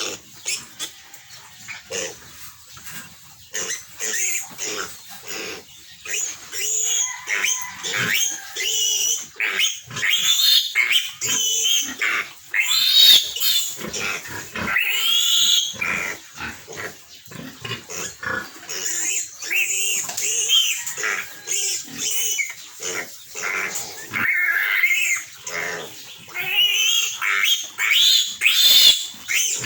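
Piglet squealing in repeated loud, high-pitched screams, the distress cry of a young piglet being handled for castration.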